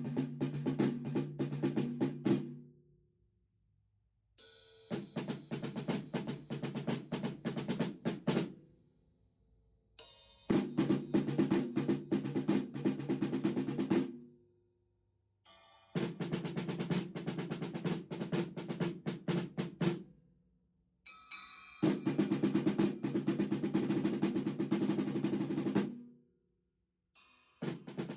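Improvised drum-kit track: fast snare-and-tom rolls played in phrases of about four seconds, with short pauses between them.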